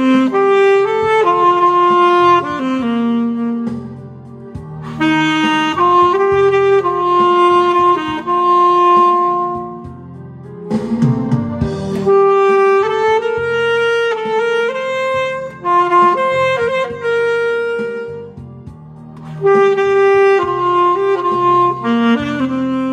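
Saxophone playing a slow song melody over a backing accompaniment, in long phrases with short breaks between them.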